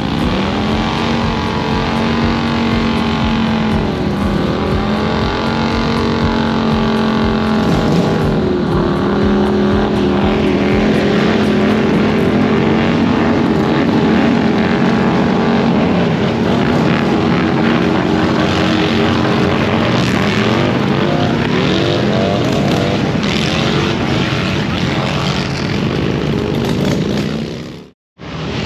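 Car engines running loud at high, held revs, the pitch stepping up and down every few seconds as vehicles drive past. The sound cuts out briefly near the end.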